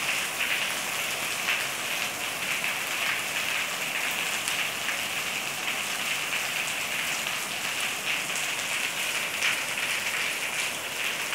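Rain falling on a concrete floor: a steady hiss of rain with many small ticks of single drops striking.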